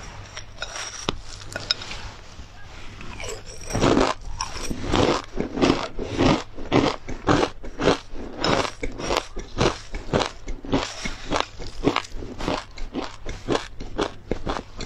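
Close-miked chewing of crunchy tartary buckwheat and pepper crisp. Faint spoon scrapes and clicks in the bowl at first, then from about four seconds in, loud crisp crunches at roughly two a second.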